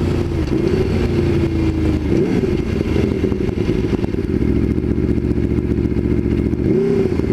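Aprilia Tuono V4 1100 Factory's 65-degree V4 engine running steadily under way, with brief changes in pitch about two seconds in and again near the end.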